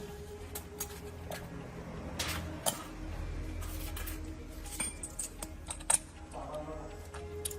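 Irregular metallic clinks and taps of hand tools and metal parts being handled, over a low steady hum.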